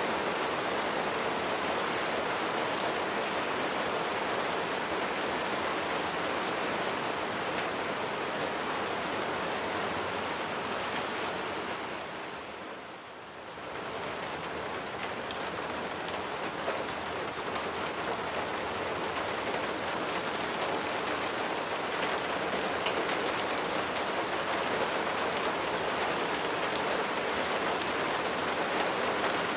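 Steady rain falling, a dense wash of many drops, with a brief dip in loudness about thirteen seconds in before it picks up again.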